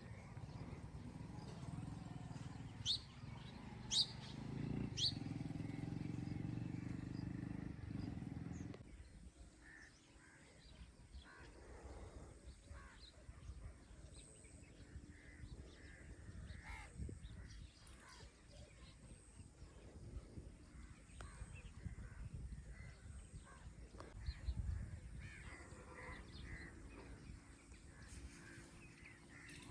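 Birds calling, crow-like caws among them. About three seconds in come three sharp high calls a second apart, over a low rumble that stops about nine seconds in. After that, scattered faint calls continue over quieter background.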